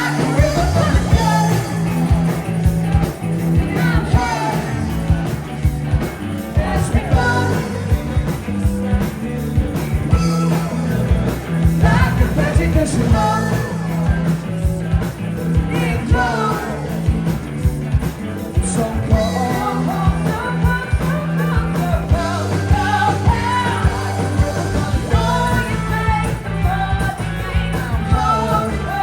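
Live rock band playing a loud full-band section: drums hit steadily under sustained bass notes and electric guitars, with no pause.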